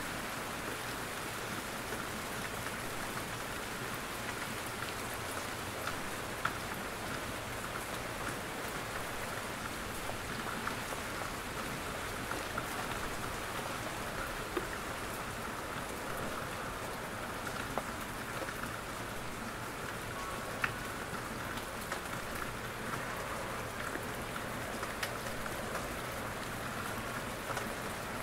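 Steady rain falling in a forest, a constant hiss with scattered individual drops pattering and ticking as they fall from the trees.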